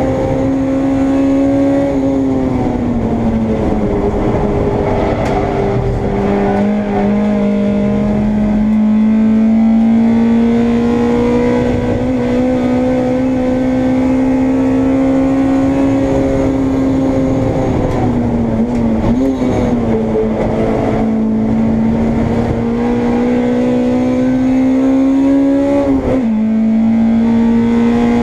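Honda Integra race car's four-cylinder engine heard from inside the car at racing speed, its note climbing slowly under full throttle and falling back several times as the driver lifts, brakes and changes gear, with a sharp drop near the end.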